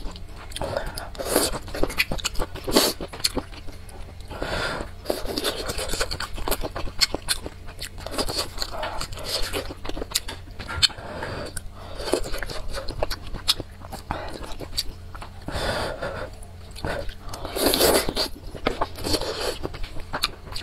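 Close-up eating sounds: chewing and mouth noises on noodles and vegetables in spicy broth, with chopsticks scraping and clicking against the bowl.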